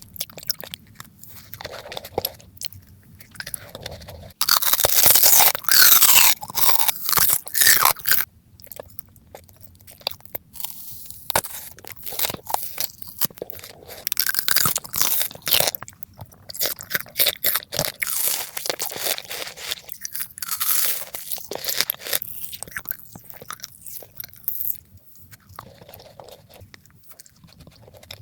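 Close-miked eating: crunchy bites and chewing. The crunching is loudest in a dense run from about four to eight seconds in, then goes on as softer, irregular crunches and chews.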